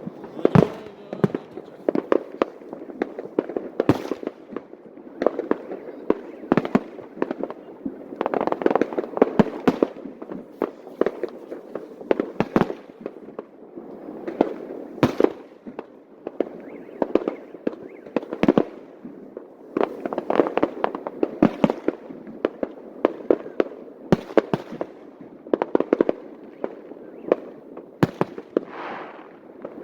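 Fireworks display: aerial shells bursting in a continuous barrage, with sharp bangs coming one after another, often several a second, over an unbroken din.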